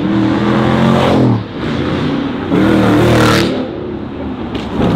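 Car engine revving hard in two loud pulls, its pitch climbing through the first second or so, then a louder, rougher rev from about two and a half to three and a half seconds in.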